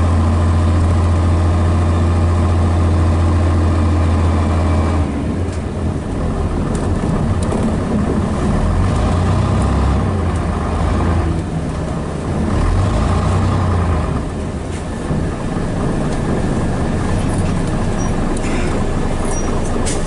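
Scania DS11 diesel engine of a Scania Metropolitan double-decker bus, running at a steady idle. About five seconds in the steady note breaks up, and the engine runs on unevenly, rising and falling.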